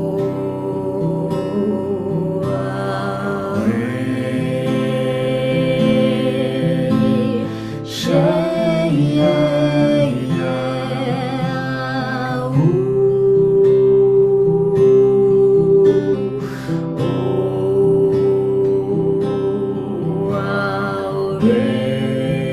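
Voices chanting long held vowel sounds over a strummed acoustic guitar, one round of the devotional sound-song. Each note is held for three to four seconds before moving to the next.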